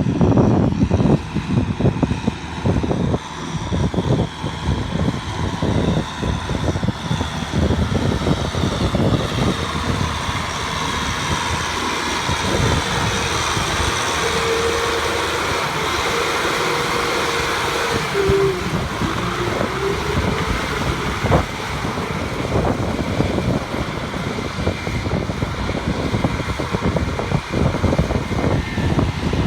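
Farm machine engine running steadily, with wind buffeting the microphone. About halfway through, a steady whine sounds for several seconds and dips in pitch as it ends.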